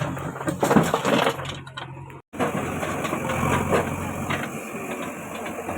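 A stretch of knocks and crunching that breaks off abruptly a little past two seconds in, followed by a backhoe loader's diesel engine running steadily.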